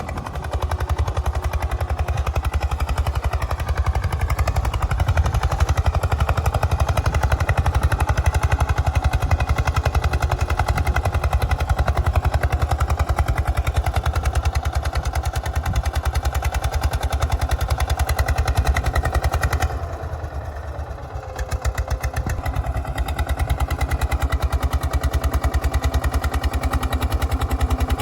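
Eicher tractor's diesel engine running under the load of a soil-filled trolley, with a rapid, even thumping beat. The level drops briefly about twenty seconds in, then picks up again.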